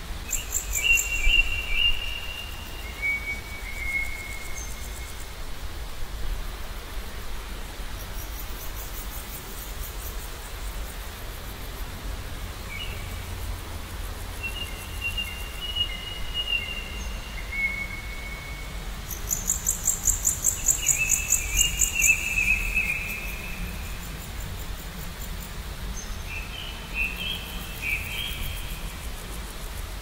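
Small songbirds singing: short whistled phrases come every few seconds, with bursts of a very high, rapid trill. A low steady rumble runs underneath.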